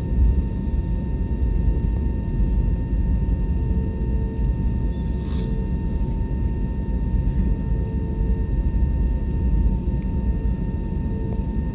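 Steady low rumble of cabin noise inside an Airbus A320neo airliner, its engines and airflow heard from a passenger seat, with faint steady tones above the rumble. A brief rustle about five seconds in.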